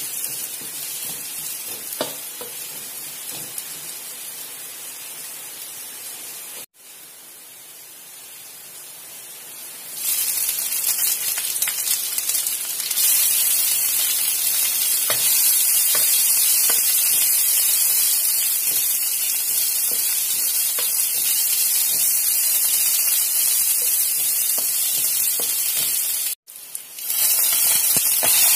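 Chopped garlic and sliced ginger sizzling in hot oil in a wok, with a spatula stirring and scraping the pan now and then. The sizzle grows louder about ten seconds in and cuts off abruptly twice.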